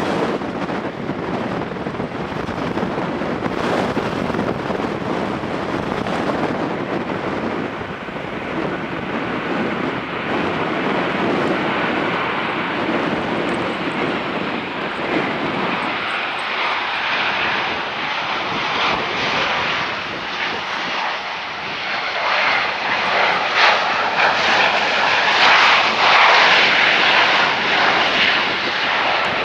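Jet airliner's engines during a landing, a steady rushing hiss that grows louder toward the end. Wind buffets the microphone with a low rumble through the first half.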